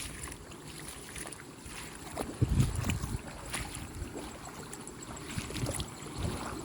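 Rice-field runoff water flowing and sloshing, with wind on the microphone; a louder rush about two and a half seconds in.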